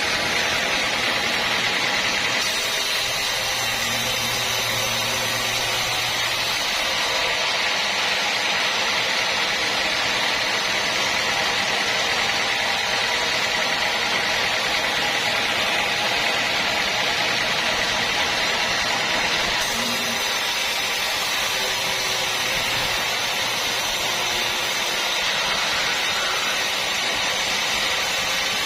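Sawmill machinery running steadily: a continuous mechanical noise with a strong hiss in the upper-middle range, and no pauses or distinct strikes.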